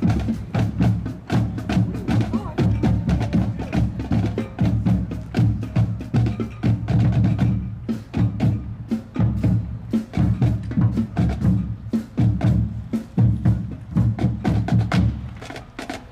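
A band's drums playing a fast, driving beat, with rapid strokes and heavy low drum hits throughout.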